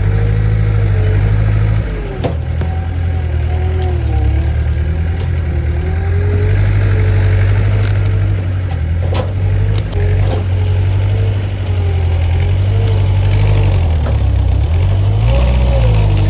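Skid steer working under load: a steady low engine drone with a higher whine that rises and falls as the machine works. A few sharp knocks sound through it, about two, four, nine and ten seconds in.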